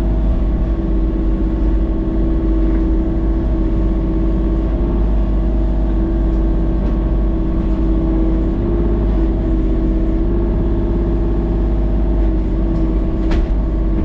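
An engine running steadily at a constant speed, a loud even drone, with a brief sharp click near the end.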